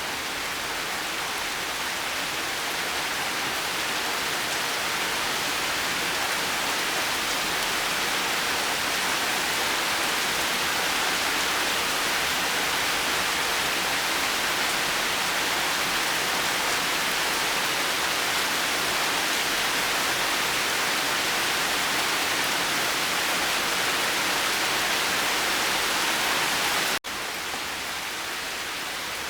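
Steady rain falling, an even hiss with no break in it. About 27 seconds in it cuts out for an instant and resumes slightly quieter.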